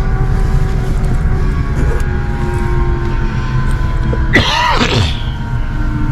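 Helicopter cabin noise: the steady drone of the engine and rotors with a steady whine over it. A short vocal sound, like a brief exclamation, comes about four seconds in.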